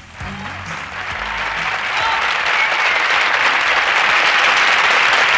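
Television studio audience applauding at the end of a song, the clapping rising over the last low notes of the backing track and building to steady loud applause.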